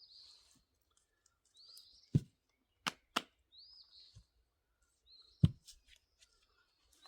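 A bird repeating a short, high, arched chirp about every two seconds, with four sharp knocks in between, the loudest about two seconds in and again about five and a half seconds in.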